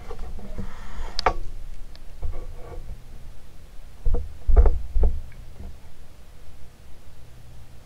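NuTone Decorator ceiling fan running with a low steady hum, broken by a few sharp clicks and low thumps, one click about a second in and a cluster around four to five seconds in.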